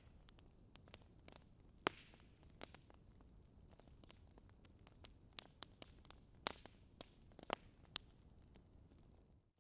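Wood fire in a fireplace crackling quietly: scattered sharp pops and snaps, a few louder than the rest, over a faint hiss. Near the end the sound drops out for a moment, then the crackling comes back denser.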